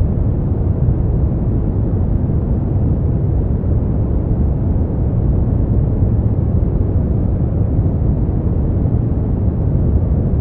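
Steady noise from a sleep-aid track billed as white noise. It is deep and even, weighted to the low end with little hiss, and unbroken throughout.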